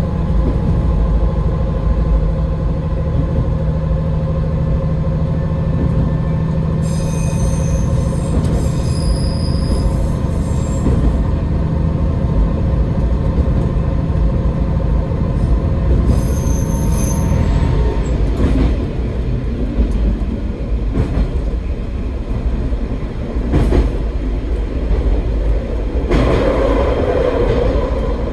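AN-8800 diesel railcar running along the track, its engine droning steadily for the first two-thirds and then easing off. Wheels squeal in short high-pitched bursts twice along the way.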